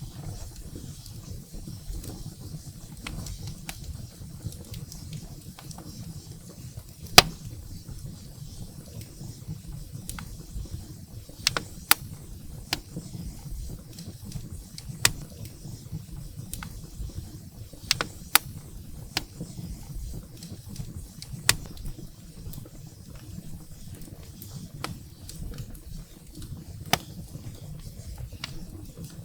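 Wood fire burning in a fireplace, crackling: irregular sharp pops and snaps of burning firewood over a steady low rush of flame, the loudest pop about seven seconds in.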